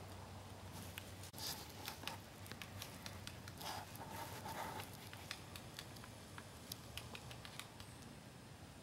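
Scattered light clicks and taps at an irregular pace, busiest from about a second and a half to five seconds in, over a steady low background.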